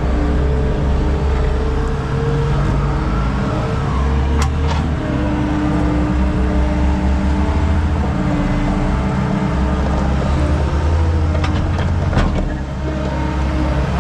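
Skid steer engine running steadily under work load, its pitch wavering as it works, with two sharp clanks, one partway through and one near the end.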